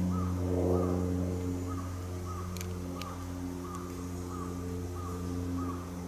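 Short, arched bird calls repeating about twice a second, over a steady low hum.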